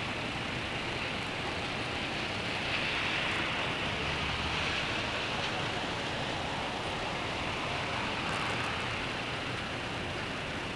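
Steady hiss of rain mixed with traffic on a wet road, swelling a little between about two and six seconds in and again near the end.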